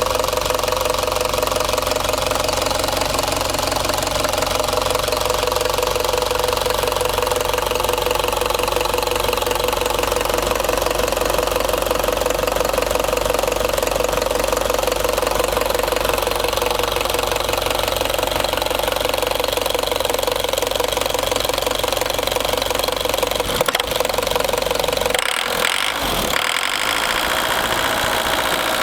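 Mitsubishi FE truck's diesel engine idling steadily, with one brief thump about three-quarters of the way through.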